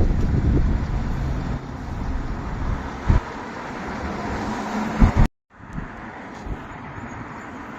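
Scania V8 truck engine running with a deep rumble that drops away after about a second and a half as it moves off, with a few low wind thumps on the microphone. The sound cuts out briefly about five seconds in, then quieter road and traffic noise follows.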